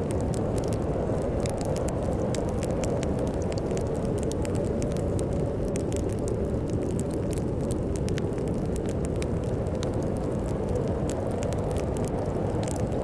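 Fireplace wood fire crackling, with frequent irregular sharp pops over a steady low rumble of storm wind.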